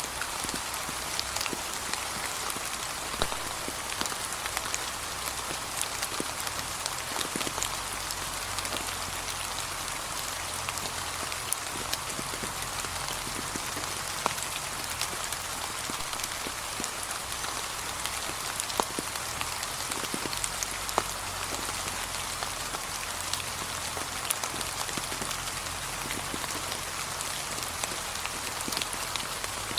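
Steady, gentle rain falling on fallen autumn leaves: an even patter with scattered individual drops ticking through it.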